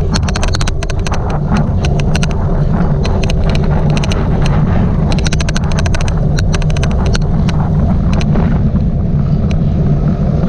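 Wind buffeting the microphone as a steady low rumble, with runs of rapid sharp clicks coming and going over it. This is the odd clicking noise that runs through the recording; its source is not identified.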